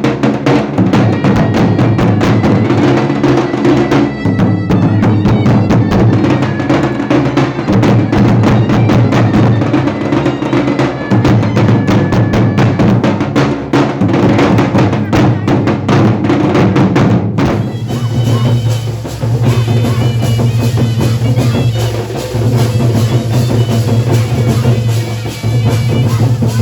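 Dhol and nagada drums played together in a fast, unbroken rhythm with a deep, booming bass. The sound changes abruptly about two-thirds of the way through, as if at an edit.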